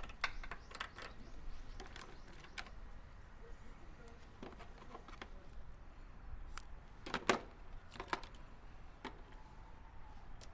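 Scattered light clicks and taps of hands working on engine-bay wiring and small parts, with a sharper cluster of clicks about seven seconds in.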